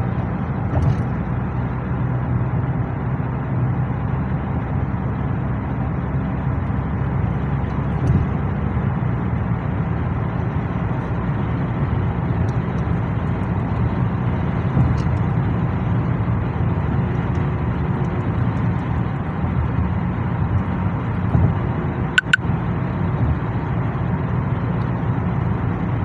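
Car cabin noise while driving: a steady low rumble of engine and tyres on the road. A single brief sharp click-like sound comes a few seconds before the end.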